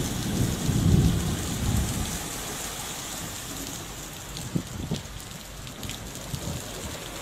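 Heavy stormy rain hissing steadily, with low gusty rumbles of strong wind in the first couple of seconds that then ease. A couple of sharp ticks stand out about halfway through.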